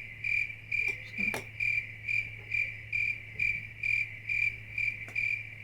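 Cricket-like chirping, short evenly spaced chirps at about two a second, over a steady low electrical hum.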